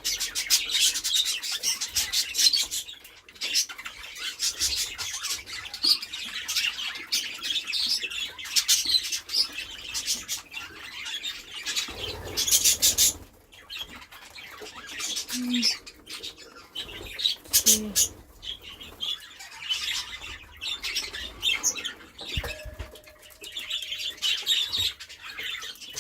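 A roomful of budgerigars chattering and chirping without pause, with bursts of wing flapping and a louder rustling burst about halfway through.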